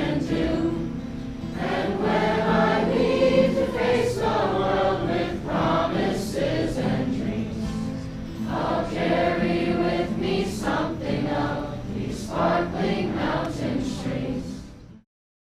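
A group of voices singing together, like a choir, cutting off abruptly near the end.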